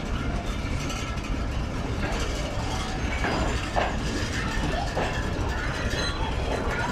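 Empty passenger coaches rolling past on the track: a steady rumble of wheels on rail with rattling and clanking from the bogies and couplings, and a few sharper knocks about three to four seconds in.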